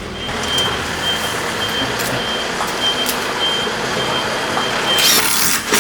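A vehicle's reversing alarm beeping steadily, about two high beeps a second, over a loud steady rushing noise, with a brief louder burst of noise near the end.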